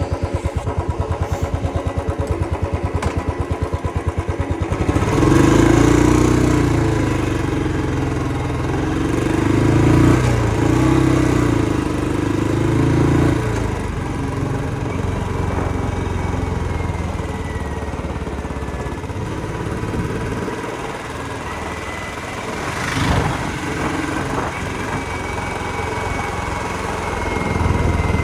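Royal Enfield motorcycle engine idling with a fast even beat, then revving up and pulling away about five seconds in, and running on with rising and falling revs.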